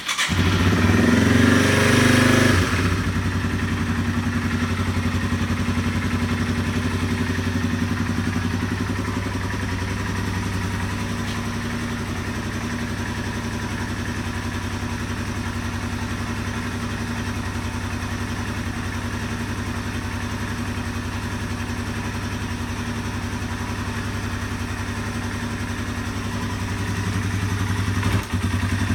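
2015 Yamaha TW200's 196 cc air-cooled single-cylinder four-stroke engine running just after a cold start with the choke out. It runs louder for the first two or three seconds, then settles into a steady idle, dipping briefly near the end before coming back up a little louder.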